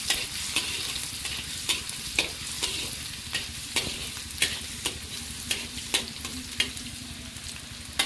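Chopped ginger and green chilli sizzling in hot mustard oil in a steel kadhai, stirred with a perforated steel slotted spoon that clicks against the pan about twice a second.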